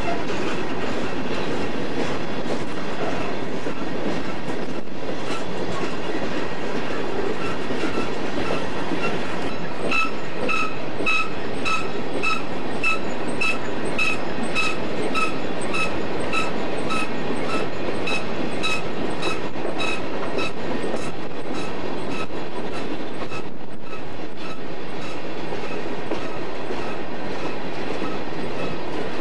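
Coal train's hopper cars rolling past with a steady rumble of wheels on rail. From about a quarter of the way in to about two-thirds through, a high squeal pulses about two to three times a second, wheels squealing as the cars go through a curve.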